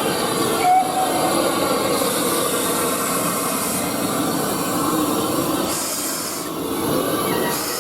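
A train running along the track, with a steady noise of wheels and carriages rolling and a brief short tone about a second in.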